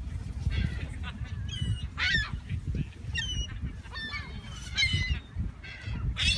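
A group of large birds calling in a quick run of short, harsh, honking calls, some sliding up or down in pitch, over a low rumble of wind on the microphone.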